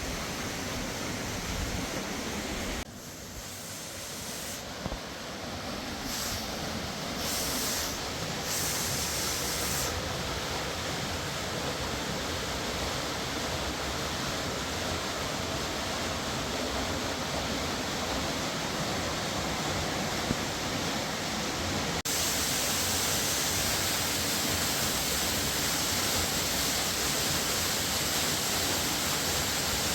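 Steady rushing of a fast-flowing mountain river. It drops briefly about three seconds in, builds back, and steps up slightly louder about two-thirds of the way through.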